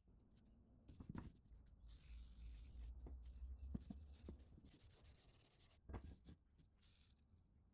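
Faint rubbing and scraping on a hard surface, with a few light knocks about a second in, near the middle, and toward the end.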